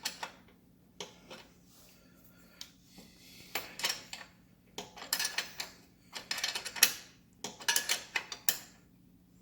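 Metal hand wrench working the exhaust mounting nuts: clusters of short metallic clinks and clicks in several bursts after a quiet start, as the nuts are tightened.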